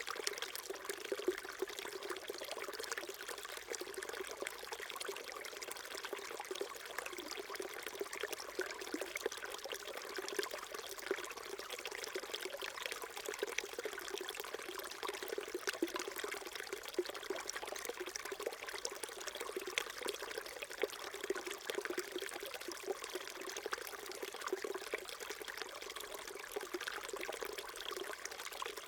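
Small mountain stream babbling and trickling over rocks, a steady flow of water with many small splashes and gurgles.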